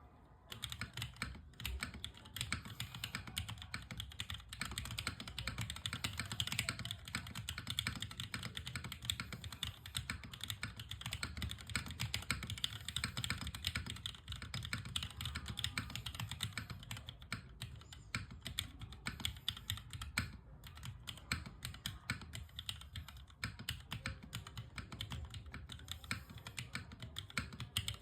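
Unikorn mechanical keyboard being typed on steadily and quickly, a dense, uneven stream of key clicks with a deep thock under each stroke, for a sound test.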